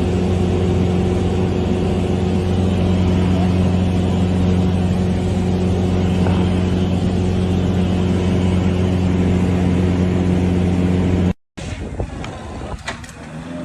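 A steady, unchanging low motor drone, like an engine running at constant speed, that cuts off abruptly about 11 seconds in.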